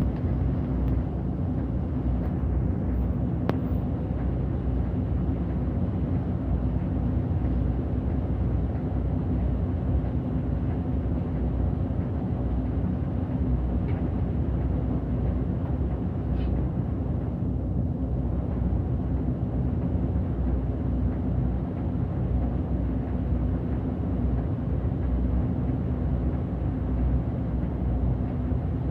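City bus on the move, its engine and tyres giving a steady low rumble with a constant hum, heard from inside at the front of the bus.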